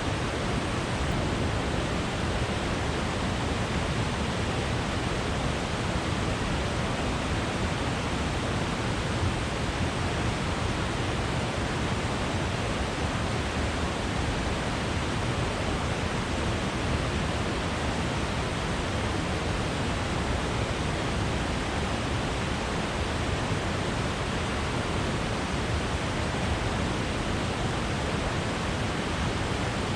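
Steady rushing of water falling at a waterfall on the Willow River, an even noise with no breaks or changes.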